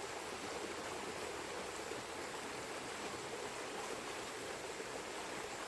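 A shallow river flowing steadily over its bed, an even rush of water.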